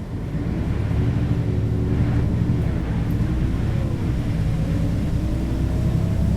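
Mercedes-Benz O 530 G Citaro articulated bus's diesel engine pulling under load through its ZF automatic gearbox, getting louder about half a second in. About four seconds in the pitch shifts and a whine climbs slowly.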